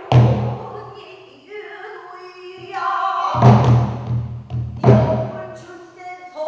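Pansori singing, one voice holding and bending long notes, with the buk barrel drum struck sharply three times: at the start, past the three-second mark, and again about a second and a half later.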